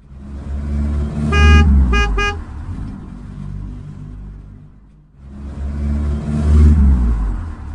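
Car engine revving in two swells, with a car horn honking three times about a second and a half in: one longer toot, then two short ones.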